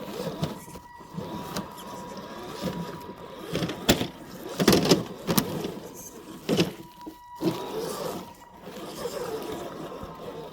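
Small electric motor and drivetrain of an FMS FJ40 RC crawler whining, its pitch wavering as the throttle changes. Several sharp knocks and clatters about halfway through.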